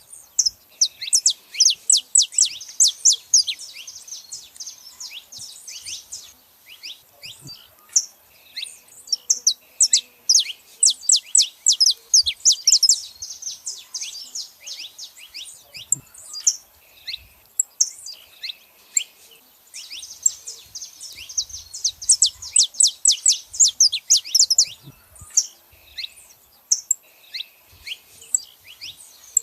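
Saffron finches chirping: rapid runs of sharp, high, falling chirps in three long dense bursts, with scattered single chirps in between.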